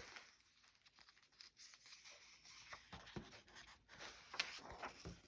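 Faint rustling of paper as the pages of a vintage paper doll book are handled and turned, with a few soft taps.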